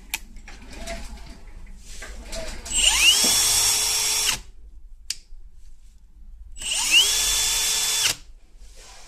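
Milwaukee M18 FPD2 cordless hammer drill run with no load, twice: each time a whine rises quickly as the motor spins up, holds steady for about a second and a half, then cuts off. Short clicks fall between the two runs.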